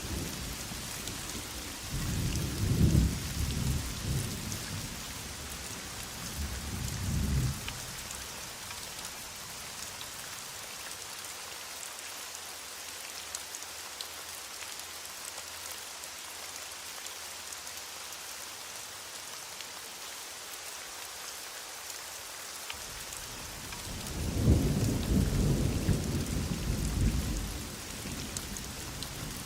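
Heavy rain falling steadily, with rolls of thunder: two rumbles in the first few seconds, the second fainter, and a longer, louder roll starting past the twenty-second mark.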